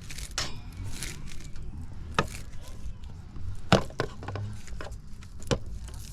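A few sharp clicks and knocks from tools and small parts being handled during work on a heat pump's sensors. The loudest comes about halfway through, over a low steady hum.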